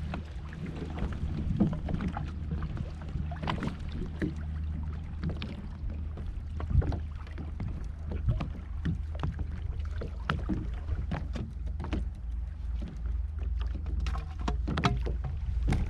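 Scattered light clicks and knocks of fishing gear being handled aboard a kayak while live bait is rigged, over a steady low rumble.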